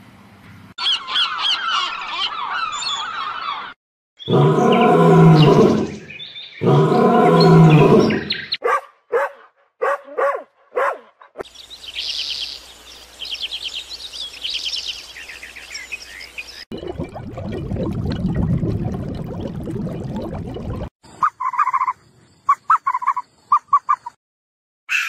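A string of short animal-call clips cut one after another. It opens with busy high twittering, then two loud, long pitched calls and a scatter of clicks. Rhythmic high chirping follows, then a low rumbling growl, and a few short peeps near the end.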